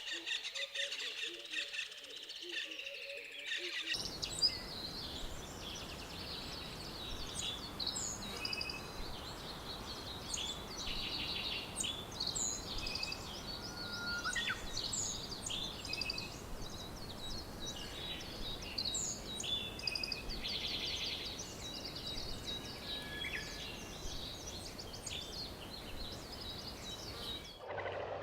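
Many birds chirping and calling in a rainforest chorus over a steady background hiss, with short whistled notes and buzzy trills overlapping. The background changes abruptly about four seconds in and again near the end.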